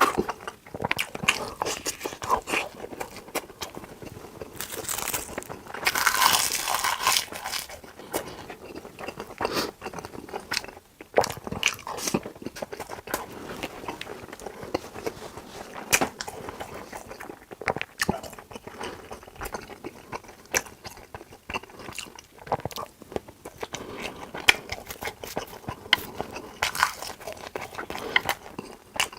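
Close-miked eating sounds: chewing and crunching with many sharp clicks and crackles, with a louder, noisier stretch about five to seven seconds in.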